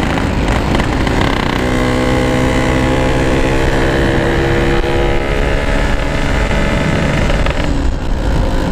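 Yamaha RX-King's two-stroke single-cylinder engine running under way, its exhaust note holding a steady pitch that climbs slightly, mixed with wind rush on the helmet microphone.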